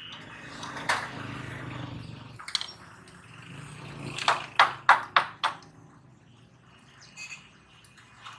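A low hum that stops about two and a half seconds in, a few single clicks, then five sharp knocks in quick succession about four to five and a half seconds in, the loudest sounds here.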